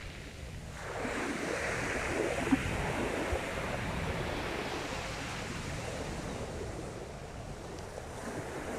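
Sea waves washing onto the beach: a wave breaks about a second in, and its wash slowly eases off.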